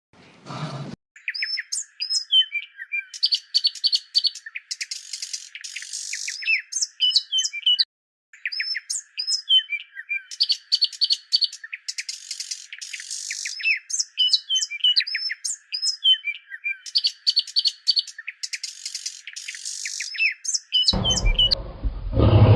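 A songbird singing a rapid, varied string of high chirps, whistles and trills, the same run of phrases repeating every six or seven seconds.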